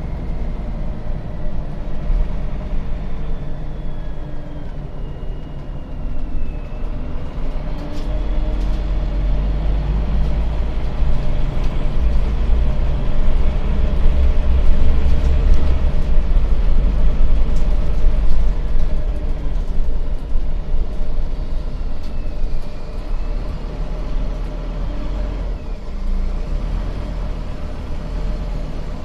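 Scania bus engine and drivetrain heard from inside the bus while under way. The engine pulls harder from about six seconds in, is loudest around the middle, then eases off. A faint high whine glides down in pitch a few times.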